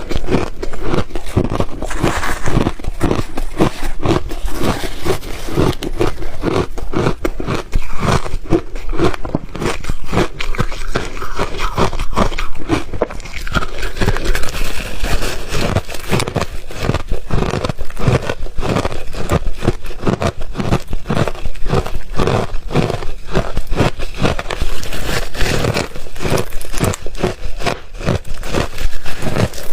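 Close-up crunching and biting of refrozen ice, a rapid, continuous run of sharp cracks several times a second.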